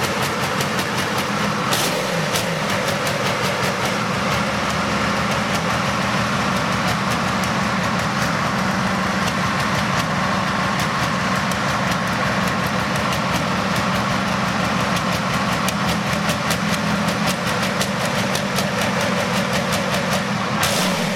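Transmash V-84MS V12 diesel engine from a T-55 tank, built up for tractor pulling, running steadily with a fast, even stream of firing pulses.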